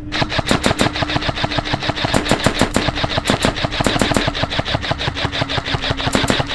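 Airsoft rifle firing full-auto in a long continuous burst: a rapid, even clatter of shots.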